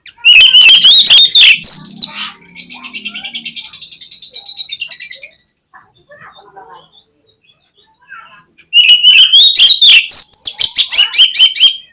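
Oriental magpie-robin (kacer) singing: a loud burst of rapid, varied whistled notes, then a quieter fast trill for about three seconds. After a pause, another loud burst of song starts near the end.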